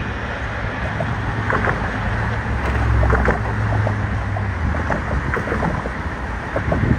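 Diesel locomotive engine drone from a train moving through the rail yard, swelling a couple of seconds in and easing off again, with scattered clicks and wind buffeting the microphone.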